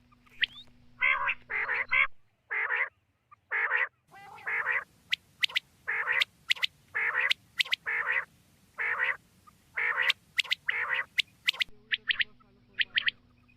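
Common quail calling over and over: short, nasal, rasping notes, many in pairs, mixed with quick runs of sharp, clipped whistles.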